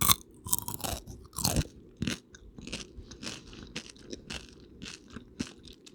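Close-up crunching and chewing of peanut butter M&Ms: the candy shells crack in many quick, irregular crunches.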